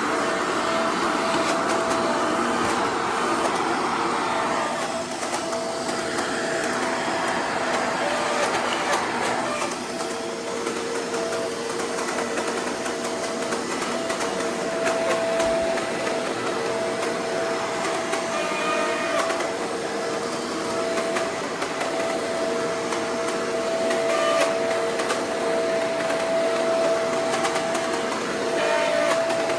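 Shark Powered Lift-Away DuoClean vacuum running steadily, its motor giving a held whine over a rushing noise. Its pitch shifts a little as it is pushed about, and a second tone joins about a third of the way through.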